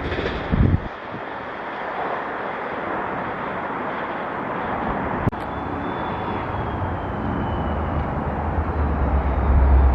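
Steady rushing noise of a train on the Northeast Corridor. After an abrupt break about five seconds in, a deep rumble builds toward the end as another train approaches.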